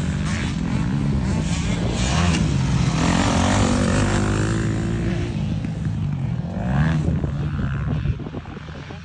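Motocross bikes racing, engines revving up and down with the pitch rising and falling, the sound dropping away about eight seconds in.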